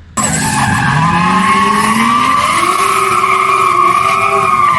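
Drift car sliding: the engine revs up, rising in pitch, over sustained tyre screech. It starts abruptly about a fraction of a second in and stays loud throughout.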